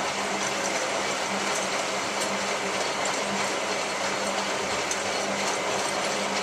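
Hotpoint 9534A washing machine running mid-cycle on its Cotton 85 descaling wash: a steady running noise over a low, even hum.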